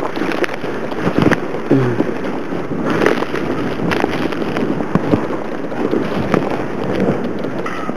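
Blizzard wind blowing over the microphone: a steady rushing noise with many small irregular crackles through it.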